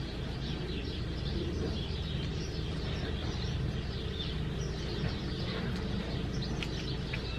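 Birds chirping faintly in the background, many short calls, over a steady low outdoor rumble.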